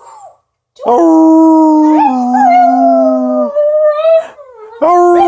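Dog howling: a long, loud howl starting about a second in that drops a step in pitch and then slides down, and a second howl starting near the end.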